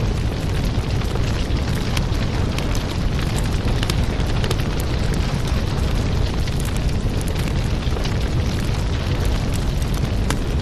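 Wood fire crackling: a steady low rush of burning with many small, quick pops and snaps throughout.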